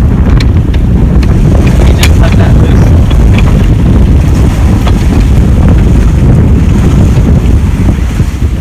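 Wind buffeting the microphone aboard a sailboat under way, a loud steady rumble, with a few sharp clicks in the first few seconds.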